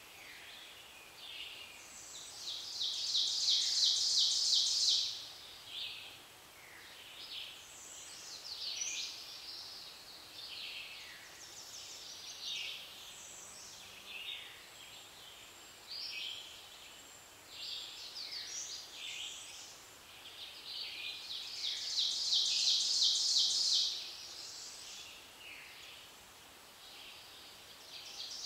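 Several woodland songbirds singing in spring, the loudest a high, rapid trill of about two to three seconds heard twice, a few seconds in and again about twenty seconds later, with shorter song phrases between.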